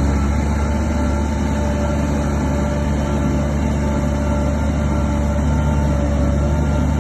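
Heavy diesel engine of earthmoving machinery running steadily, a deep constant rumble with a steady whine on top.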